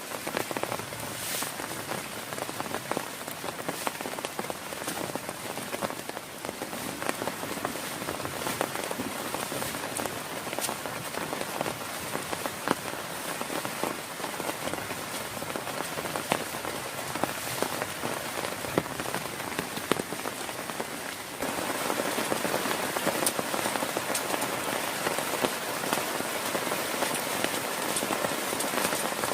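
Heavy rain falling steadily, with many close drops landing as sharp ticks. The downpour gets louder about three quarters of the way through.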